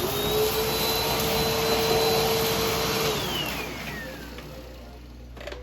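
Vacuum cleaner motor running with a steady whine and airflow rush. About three seconds in, the whine falls in pitch and the sound fades as the motor spins down.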